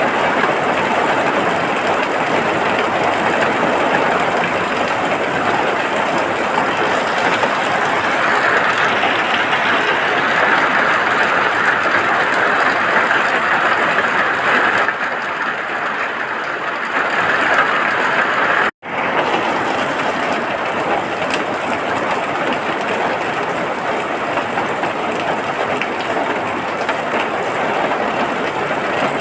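Steady heavy rain, a dense even hiss with no separate drops standing out. It cuts out for an instant about two-thirds of the way through, then carries on as before.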